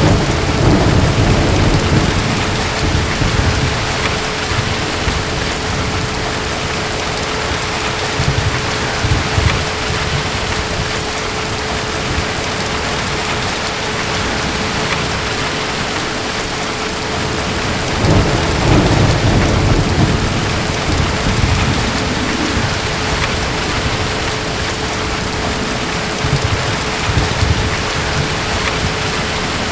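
Steady heavy rain with distant thunder rumbling low underneath: a long rumble at the start and another about two-thirds of the way in, with shorter rumbles between.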